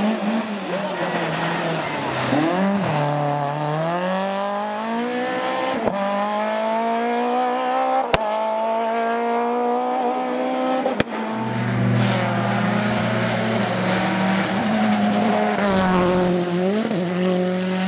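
Rally car engine at high revs, its pitch dipping and climbing with throttle and gear changes, including one long rising pull through the middle. Two sharp cracks come about 8 and 11 seconds in.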